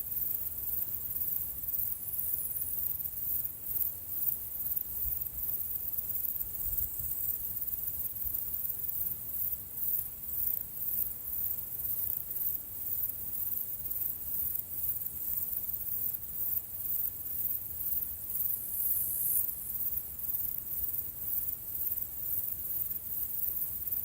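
Insects chirring continuously in a very high, fast-pulsing trill, with a faint low rumble underneath.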